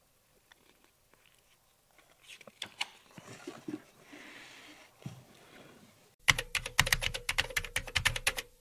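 Scattered small clicks and knocks, then, about six seconds in, a fast, loud run of clicks and taps over a steady low hum.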